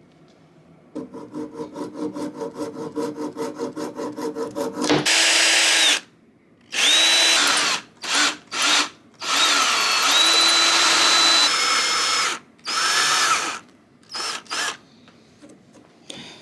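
Electric drill boring a hole: first a run of quick pulses, about five a second, then several loud full-speed bursts, the motor whine rising as each starts and falling as it stops. The material is hard enough to snap drill bits.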